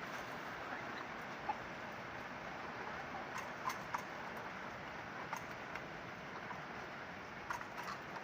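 Steady hiss of rain falling, with scattered short sharp taps through it.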